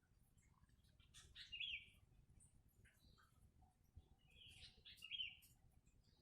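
Faint bird chirps: two short clusters of high chirping notes, about a second in and again near five seconds in.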